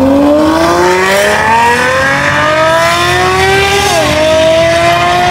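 Supercar engine accelerating hard, its pitch climbing steadily, then dropping sharply at an upshift about four seconds in before pulling on.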